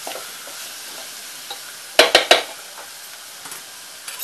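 Onion-tomato masala with potato and dried Bombay duck sizzling in a pot on a gas burner while a spoon stirs it. About two seconds in, three quick sharp knocks of the spoon against the pot.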